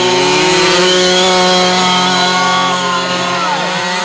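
Small two-stroke gas engine of a 1/5-scale RC truck running at high revs under heavy load while it pulls a weight sled, its pitch holding fairly steady.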